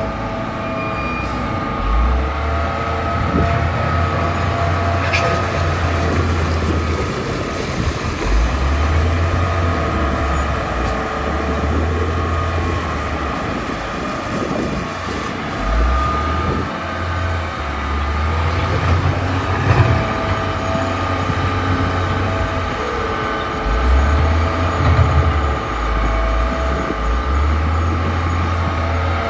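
Bulldozer's diesel engine working under load, its low rumble swelling and easing every few seconds, with a steady machine whine over it.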